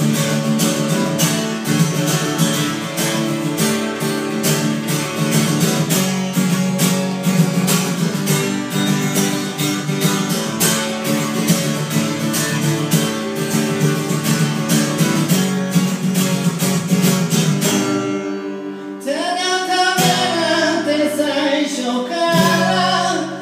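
Acoustic guitar strummed in a steady, quick rhythm. The strumming stops about 18 seconds in, and a solo voice starts singing with the guitar dropped out.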